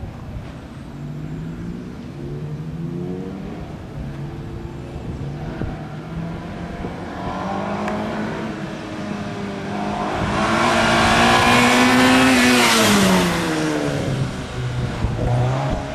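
A small hatchback's engine is revved up and down in quick bursts as the car weaves through a slalom course. The sound grows louder as it comes near, peaks as it passes about three-quarters of the way in, then drops in pitch and pulls away, with the engine revving up again near the end.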